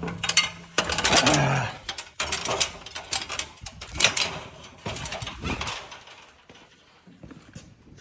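Irregular clicks, knocks and clatter, busy through the first half and thinning out near the end.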